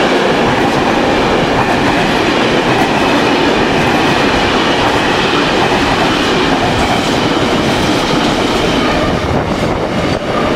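Container freight train's wagons rolling past at speed: a loud, steady noise of wheels running on the rails, which dips briefly near the end.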